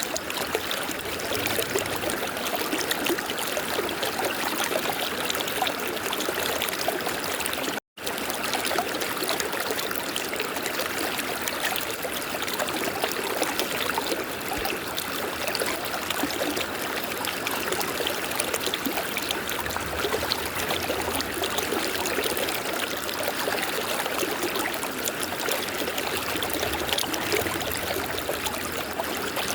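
A river flowing over rocks, a steady rushing and babbling of water. It cuts out completely for an instant about a quarter of the way in.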